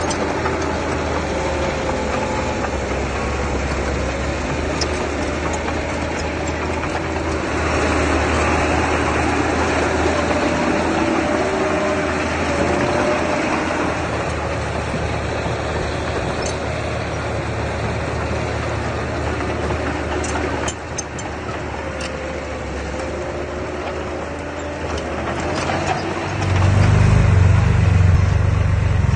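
Diesel engine of earthmoving machinery running steadily, with a low rumble that gets markedly louder shortly before the end.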